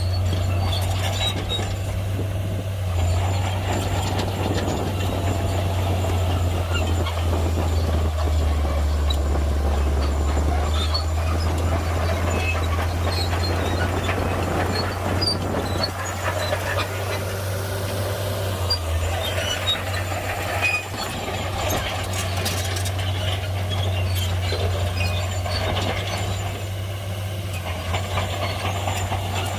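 Shantui crawler bulldozer's diesel engine running with a steady low drone, with scattered light clicks and clanks over it.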